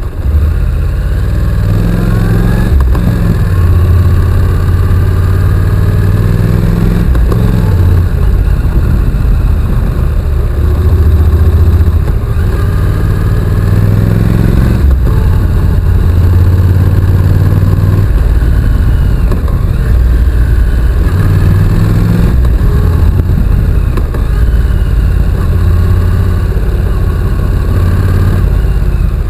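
Honda NC750X's parallel-twin engine running under way, its pitch rising and falling repeatedly as the throttle opens and closes.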